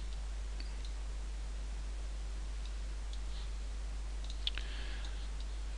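A few faint computer-mouse clicks over a steady low electrical hum, the clearest click about four and a half seconds in.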